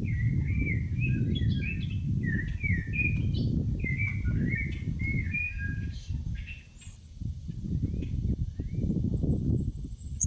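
Forest birdsong from a stock sound-effect recording: a songbird sings a quick run of warbling, chirping phrases for about five and a half seconds, then a few fainter calls, over a steady low rumble. A thin, steady high tone comes in about six seconds in.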